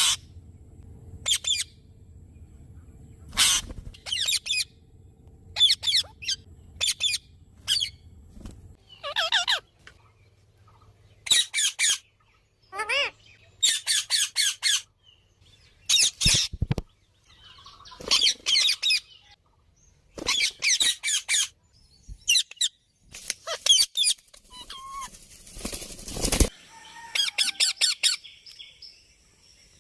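Parrot calling in short bursts of rapid high-pitched notes, over and over with brief pauses between bursts.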